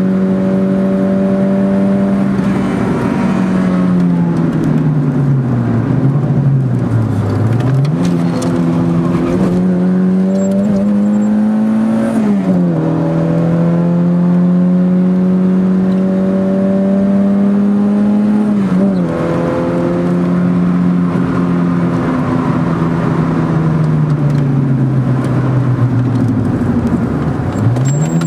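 Car engine heard from inside the cabin, driven hard around a race circuit, holding a steady pitch over road and wind noise. Several times the revs drop sharply and climb again as the car slows for corners and changes gear, with a deep dip about six seconds in and another near the end.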